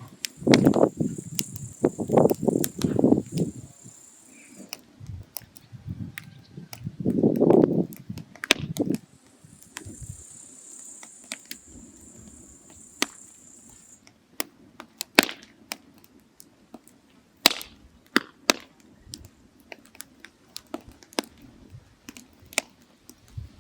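Firewood burning in a mangal, crackling with sharp, irregular pops. A few louder low rumbling bursts come in the first four seconds and again about seven seconds in.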